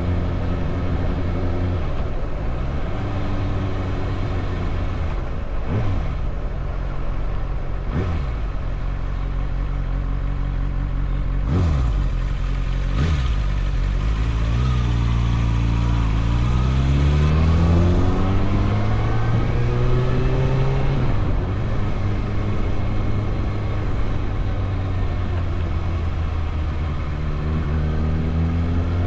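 Motorcycle engine running on the move. Its pitch climbs steadily as it accelerates from about halfway through, then drops back a few seconds later before rising again near the end.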